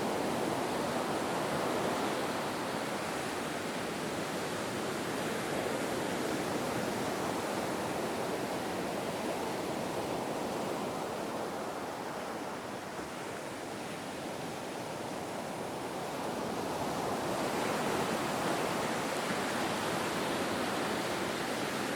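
Ocean surf washing continuously, a steady rush of breaking waves that eases a little past the middle and swells again near the end.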